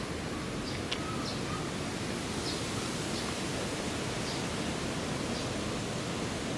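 Steady outdoor background noise, an even hiss, with faint short high chirps about once a second and a single small click about a second in.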